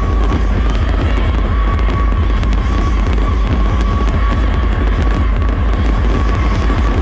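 Fireworks crackling and popping over loud electronic dance music, with a pulsing heavy bass and a held synth tone.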